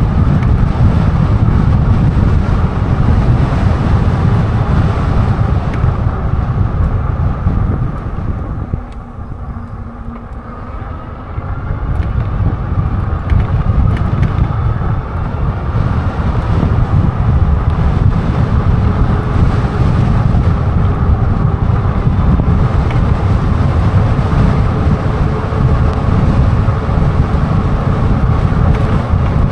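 Wind buffeting the microphone while riding an e-bike, with a faint steady whine underneath. The rush eases for a couple of seconds about nine seconds in, then picks up again.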